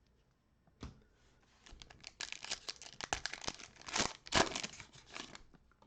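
Foil wrapper of a trading card pack torn open and crinkled, a dense crackling that lasts about four seconds after a single click near the start.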